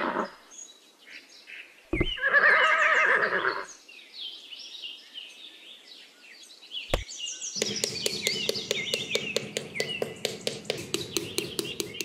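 A horse whinnies once, about two seconds in, with a short low thump at its start and bird chirps behind it. From about seven and a half seconds, background music with a quick, even ticking beat takes over.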